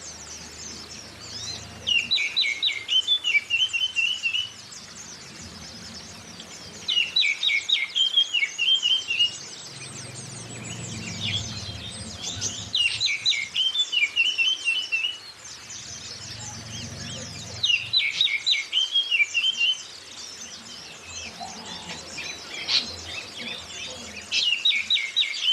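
Oriental magpie-robin (kacer) singing a loud, varied phrase of about two seconds that it repeats roughly every five seconds. Beneath it runs a continuous high chorus of many small white-eyes (Zosterops) chirping, as used in a bird-lure recording.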